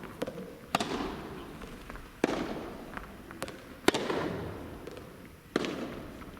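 A soft tennis rally: four sharp racket strikes on the rubber ball, about one every second and a half, each followed by an echoing tail, with a few softer bounces of the ball in between.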